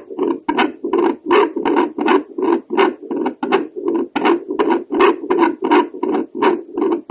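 A home Doppler probe over the aortic valve picking up a woman's heartbeat: rapid, rhythmic whooshing pulses of blood flow, several a second.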